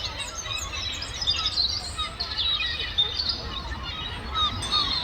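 A flock of seagulls calling over one another in quick, short, high calls while squabbling over food, over a low steady rumble.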